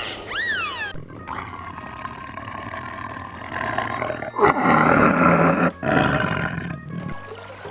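An animal's long, rough call in three stretches with short breaks, loudest in the second half, after a brief high cry that rises and falls right at the start.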